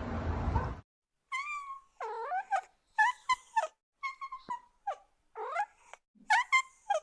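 A cat meowing over and over, a run of short high-pitched meows, starting about a second in after a stretch of noise cuts off.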